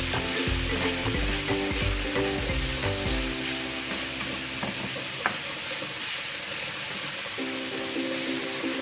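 Chicken and broccoli sizzling in a hot pan while being stir-fried, with spatula knocks and scrapes against the pan during the first three seconds or so, then a steady sizzle.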